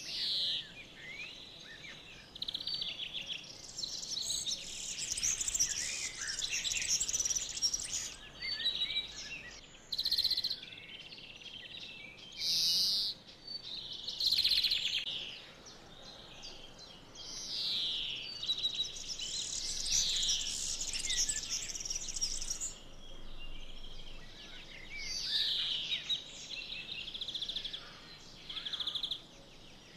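Songbirds singing, one phrase after another: trills and quick falling whistles, with short pauses between phrases.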